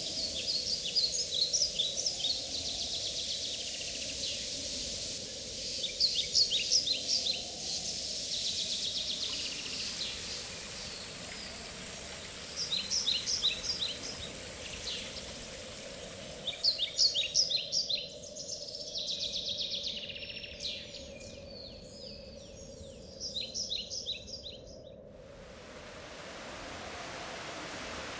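Songbirds singing short, rapid trilled phrases every few seconds over a steady background hiss. Near the end the birdsong stops and a steady rushing noise takes over.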